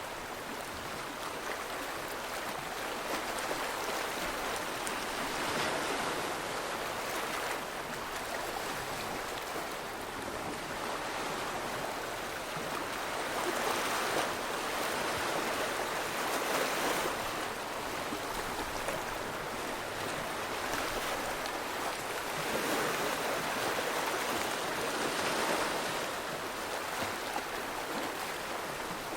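Rushing water: a steady noise that swells and eases every few seconds.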